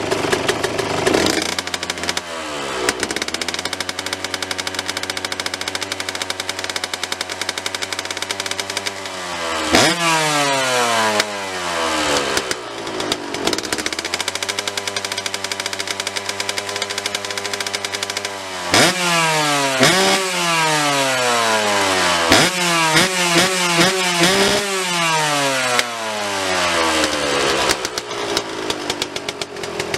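Yamaha YZ125 two-stroke single-cylinder engine with an aftermarket exhaust, idling steadily and revved several times. Each rev climbs sharply and falls back to idle, with a run of quick throttle blips a little past two-thirds of the way through.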